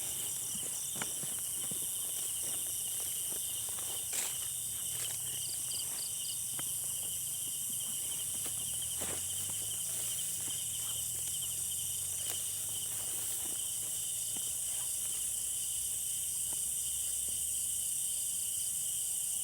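Night insect chorus, steady high-pitched chirring and trilling of crickets and other insects, with a few faint scattered clicks.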